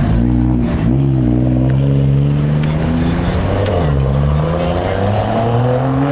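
Car engine revving, its pitch dipping and climbing again twice, rising toward the end.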